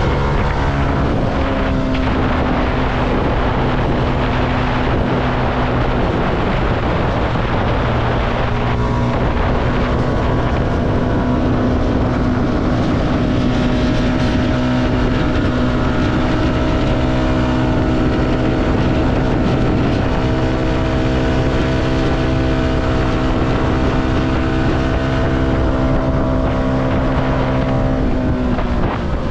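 CFMoto motorcycle engine running at steady cruising revs, with wind rushing over the microphone. The engine note breaks briefly about a second in and again about nine seconds in, and changes near the end.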